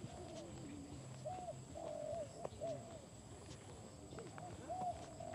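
Birds calling, short arching calls repeated again and again, over a steady high-pitched insect whine.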